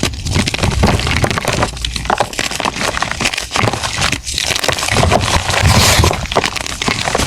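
Blocks of gym chalk being crushed and crumbled by hand: continuous crunching and crackling, broken by a few short pauses.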